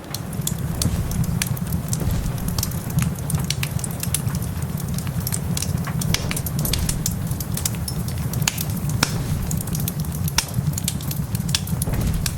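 Wood fire crackling, with irregular sharp pops over a steady low rumble and a background of rain.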